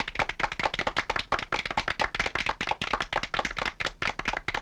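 A small group clapping: a quick, irregular patter of hand claps kept up at an even level.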